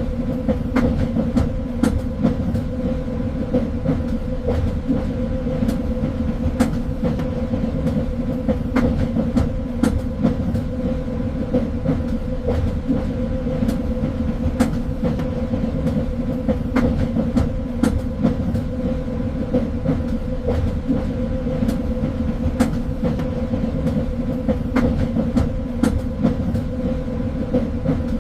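Train running along the track: a steady low rumble with a constant hum, scattered with irregular clicks and rattles from the wheels and carriage.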